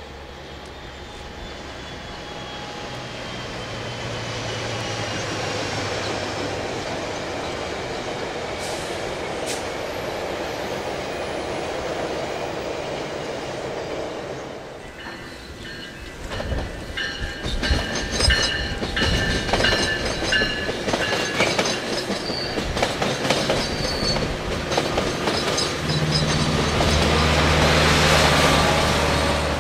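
A Metrolink commuter train with an EMD F125 diesel-electric locomotive passing. A steady rumble with a low engine drone gives way about halfway to rapid clicking of wheels over the rail joints and a wheel squeal. Near the end a loud, steady low engine drone comes in.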